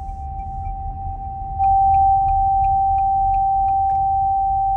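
A steady high-pitched electronic tone, like a held beep, sounding inside the cabin of a Haval H6 HEV hybrid SUV. It is an unexplained fault noise with no warning light on the dash, and it gets clearly louder about a second and a half in, with faint ticks about three a second under it.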